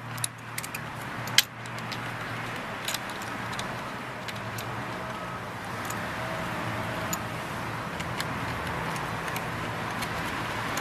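Steady background hum and hiss under scattered light metallic clicks, with one sharper knock about a second and a half in, as the motorcycle's chain guard and its bolts are handled.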